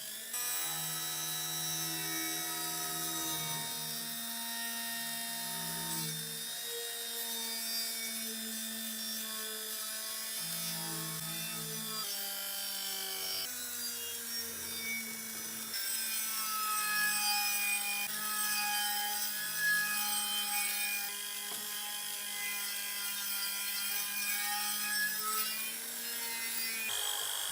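A small electric rotary tool running steadily while it grinds or rubs against metal, its pitch shifting every few seconds as the load changes.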